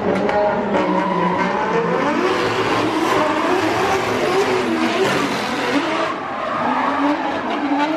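Drift cars battling on track: engines revving up and down with tyres squealing and screeching through the slide.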